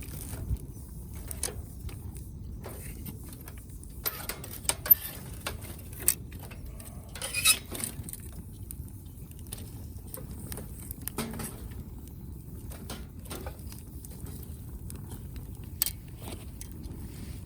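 Firewood burning in a fire pit: a steady low rumble with scattered sharp pops and crackles, the loudest pop about five seconds in and a short cluster of crackles a little later.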